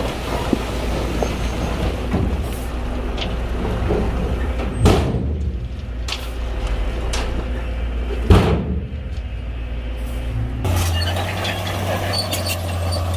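Shantui heavy bulldozer working with its diesel engine running in a low, steady drone, with sharp metallic clanks, the loudest two about five and eight seconds in. About ten and a half seconds in the engine note changes to a steadier low hum.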